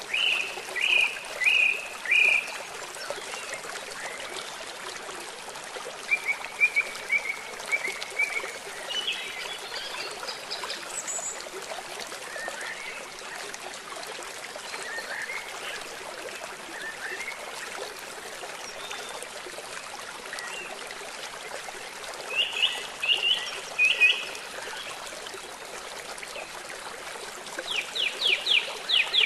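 Steady rush of flowing water, with a bird calling over it in short runs of three to five quick chirps, several times: near the start, about a quarter of the way in, and twice near the end, the last a fast run of downward-sweeping notes.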